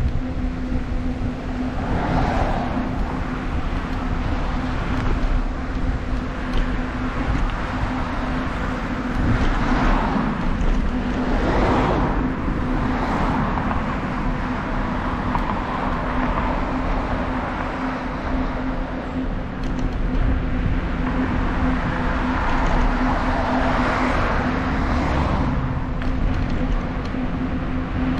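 Road traffic: several cars passing, each a swell of tyre and engine noise. Underneath is a steady low rumble with a constant hum.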